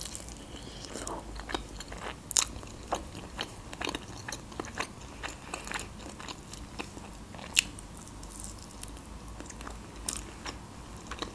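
Close-miked eating sounds: a person chewing and biting food, with scattered sharp clicks and crunches, the loudest about two and a half seconds in and again near eight seconds.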